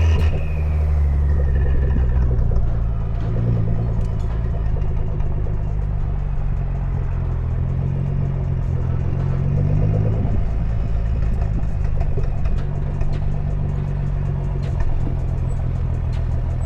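Car engine running while driving, with its pitch easing up and down as the throttle changes; the clearest change is a rise that drops back about ten seconds in.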